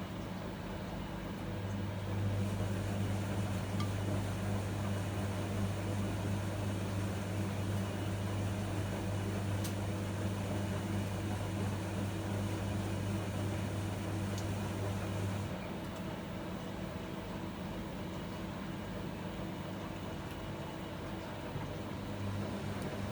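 Miele MedicWash W2585 front-loading washing machine running a wash cycle: a steady mechanical hum that gets louder about two seconds in and drops back about fifteen seconds in.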